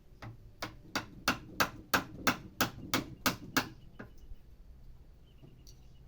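A hammer striking a small wood chisel, driving it into a wooden stump: about eleven sharp blows at a steady pace of roughly three a second, stopping about two-thirds of the way through.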